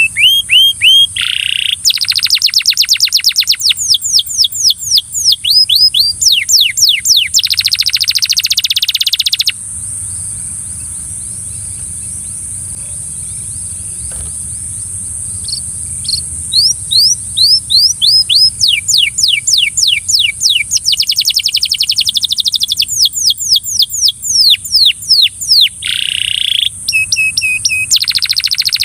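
Belgian canary singing: fast trills of repeated sweeping notes, several different rolls in a row. The song breaks off for about six seconds in the middle, leaving a steady high hiss, then starts again.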